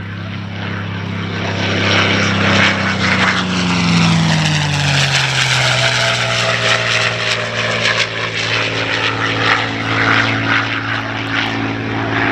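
North American P-51D Mustang's Merlin V-12 engine on a pass. The engine note builds, then drops in pitch about four seconds in as the fighter goes by, and stays loud afterwards.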